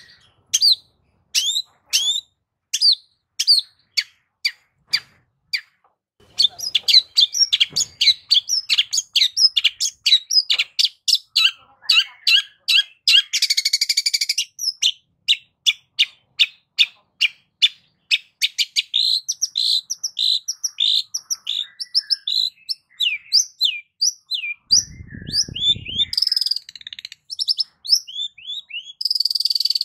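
Long-tailed shrike (cendet) singing: sharp falling chirps, spaced about once a second at first, then a fast, dense run of varied notes from about six seconds in. A harsh rasping burst comes around the middle and a brief low buzz near the end.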